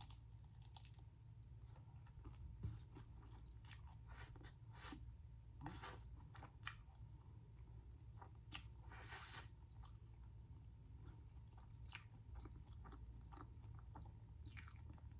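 Faint close-up chewing of a dense, heavy-battered mozzarella corn dog, with irregular soft crunches and wet mouth clicks.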